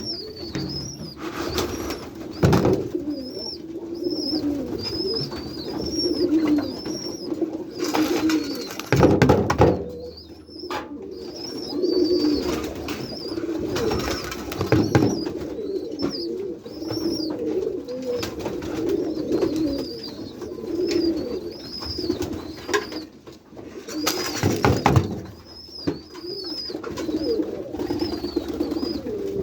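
A flock of white pigeons cooing steadily in a loft, with a high chirp repeating about twice a second above the cooing. Several louder rustling bursts break in, the biggest about eight to nine seconds in and again near twenty-four seconds.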